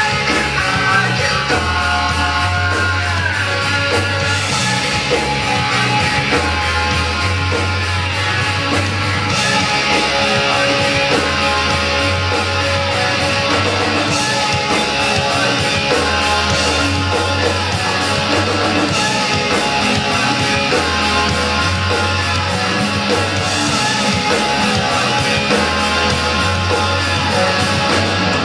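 Live rock band playing loud music with guitars over a fast, steady beat.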